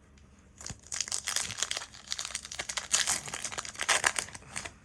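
Foil booster-pack wrapper crinkling and crackling as it is handled and opened. It starts about half a second in and goes on in quick, irregular bursts.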